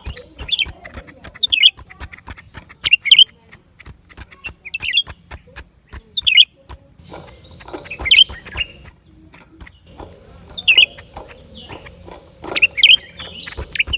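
Blue-winged leafbird singing: short, quick warbled phrases repeated about once every second or two, with sharp clicks scattered between them.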